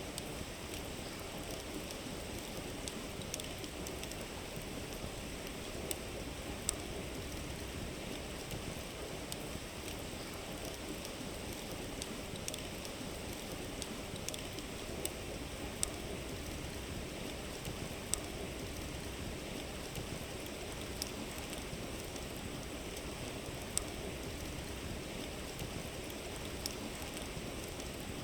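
A river babbling steadily, with a campfire's wood giving sharp crackles and pops every second or few, irregularly spaced.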